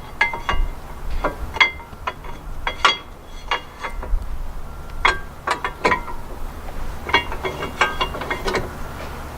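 Irregular sharp metallic clicks and clinks from hand tools on the brake caliper mounting bracket and hub as the bracket is fitted and fastened, with a few quick runs of clicks.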